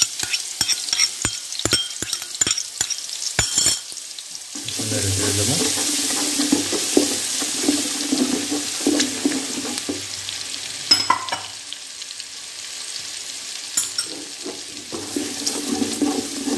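A steel spoon tapping and scraping ginger-garlic paste off a bowl rim in a quick run of clicks. About four and a half seconds in, the paste hits the hot oil in an aluminium pot and sizzles loudly, then keeps frying while a wooden spatula stirs it, with occasional knocks.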